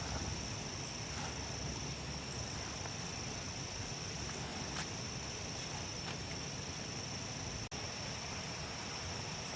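Insects chirring outdoors: a steady, high-pitched drone that holds one pitch, over a low rumble of background noise. The sound drops out for a split second about three-quarters of the way through.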